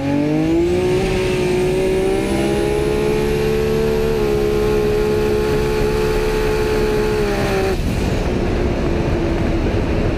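Toyota Supra drag car's turbocharged 2JZ six-cylinder at full throttle on a drag-strip pass: a loud, steady engine note that climbs in pitch, steps once about four seconds in at a gear change, then cuts off abruptly near eight seconds when the driver lifts at the end of the run. A thin high whine rises slowly above the engine throughout.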